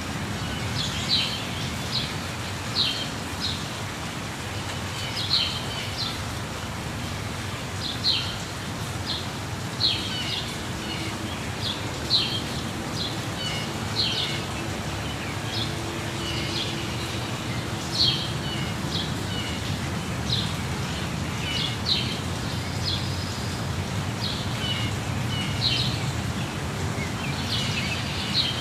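Steady rushing of a waterfall, with small birds giving short high chirps every couple of seconds over it.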